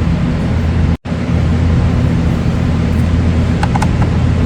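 Loud steady low mechanical hum, broken off for an instant about a second in, with a few light clicks near the end.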